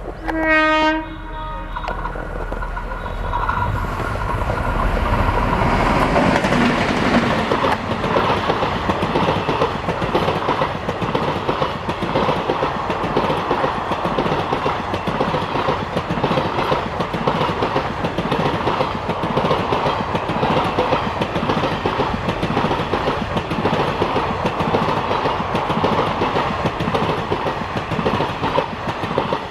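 An Indian Railways WAP-7 electric locomotive gives a short horn blast about a second long, then its train runs by on the rails, the wheel and rail noise building over the first several seconds and then holding steady with a clickety-clack.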